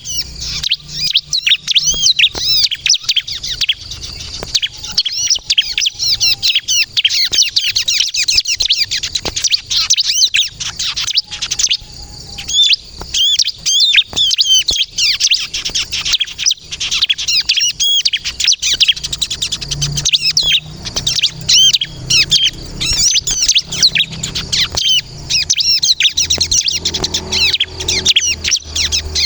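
Bar-winged prinia (ciblek kristal) singing continuously: rapid, high-pitched chirping notes running on almost without a break, with a short lull about twelve seconds in.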